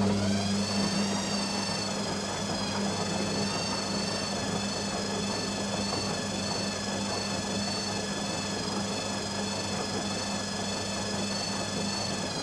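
Beko WTG620M1 washing machine running: a steady low hum, with a high motor whine that climbs over the first second and then holds steady at speed with a slight waver, as in a short spin.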